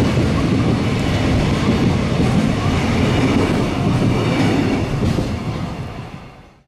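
Container freight wagons of a long freight train rolling past close by, a steady loud rumble of wheels on rail. The sound fades away near the end.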